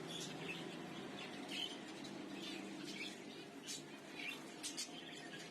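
Many caged small birds chirping, short high calls coming every half second or so, over a steady low background hum.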